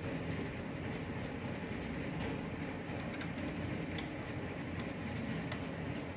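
Steady low machine hum, with a few sharp light clicks about halfway through.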